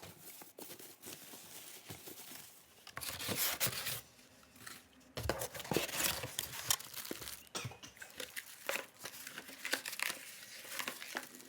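Packaging of a new electric kettle being handled and pulled open: irregular crinkling, rustling and tearing with scattered taps and clicks, in uneven bursts with short pauses.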